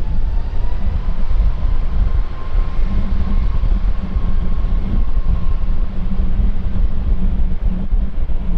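Jet airliner engines rumbling loudly as an aircraft passes, with a faint steady whine over the rumble and wind buffeting the microphone.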